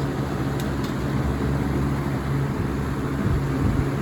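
1994–95 Lasko box fan running steadily on medium speed: a steady motor hum under the rushing noise of air from the blades.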